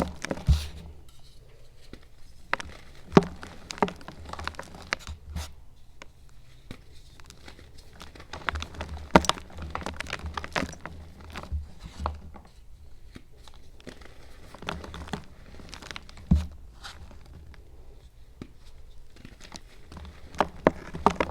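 Crunching and crackling ASMR sounds: irregular crackles and sharp clicks of something crinkly being crumpled and handled, at an uneven pace with several louder snaps.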